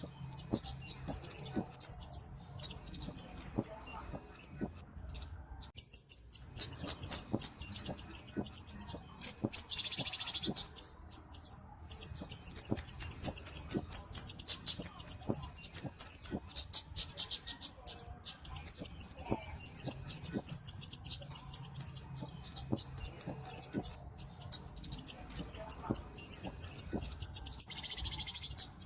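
A flowerpecker (kemade, cabe-cabean) calling in a rapid series of thin, very high ticking chips, delivered in bursts of a few seconds with short pauses between them. A brief harsher, buzzier note cuts in about ten seconds in and again near the end.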